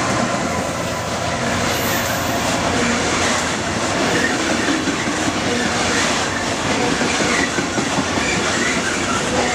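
Freightliner bogie coal hopper wagons rolling past at speed: a steady rumble and clatter of steel wheels on the rails, with now and then a short faint wheel squeal. The Class 66 diesel locomotive's engine note fades out right at the start.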